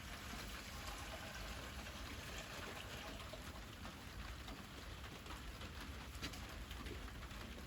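Wood fire crackling and popping steadily, small sharp crackles scattered over a soft, even hiss.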